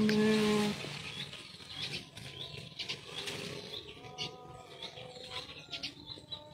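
Small birds chirping in short, high calls, several every second or two. A held, steady vocal note from a person humming or singing stops about a second in.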